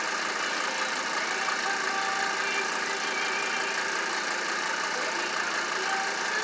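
Mercedes C250 Turbodiesel's five-cylinder diesel engine running steadily, fuelled with vegetable oil.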